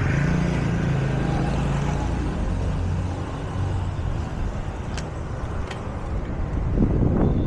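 Street traffic with a car's engine running close by: a steady low rumble, with two short ticks about five seconds in.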